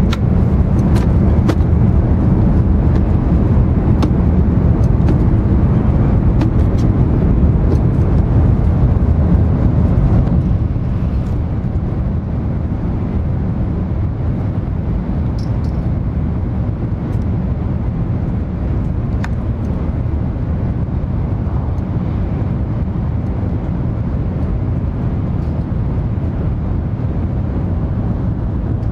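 Cabin noise of an N700 series Shinkansen running at speed: a steady low rumble, with a few light clicks in the first seconds. The rumble eases slightly about ten seconds in.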